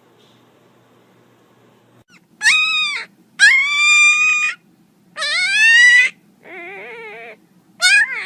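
A dog giving five high-pitched, drawn-out whining calls, one after another, starting about two seconds in. Most rise in pitch; the fourth is lower and quieter, with a wavering pitch.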